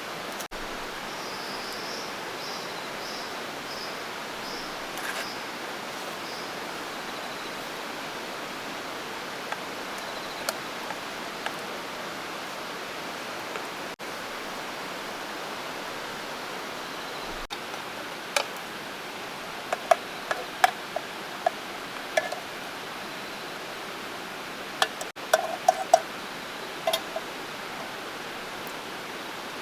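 Steady rushing hiss, with a run of sharp clicks and small metallic clinks about two-thirds of the way in, like utensils tapping against a metal mess tin.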